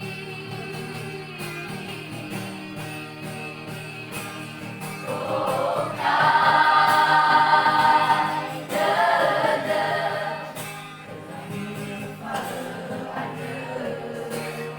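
Vocal group singing a gospel song in harmony, swelling about six seconds in to a loud passage held for about three seconds before easing back.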